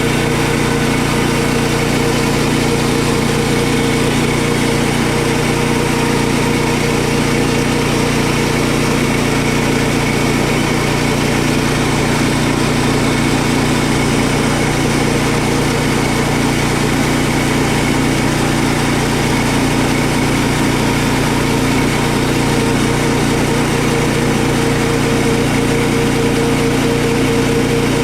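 A sawmill's small gasoline engine running steadily at a constant speed.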